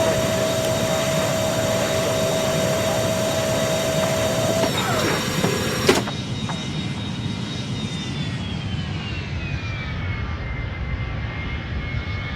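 Jet airliner engines running at high power with a steady high whine. About six seconds in, the sound drops abruptly to a duller level, and a whine then falls in pitch as the aircraft moves past.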